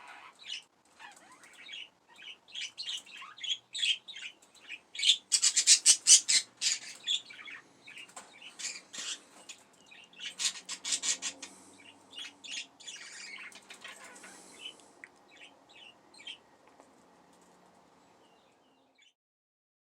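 Pet budgerigars chirping and warbling in quick, high chirps and trills, busiest in the middle and dying away over the last few seconds.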